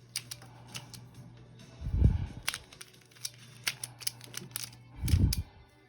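Irregular plastic clicking of a Rubik's cube's layers being turned by hand, with two heavier thumps, one about two seconds in and one near the end.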